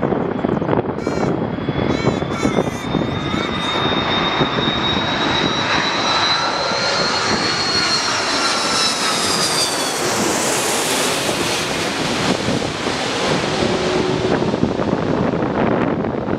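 Jet airliner passing close on the runway, its engines running loud with a high whine that rises slightly and then falls away; the hiss is strongest about ten seconds in.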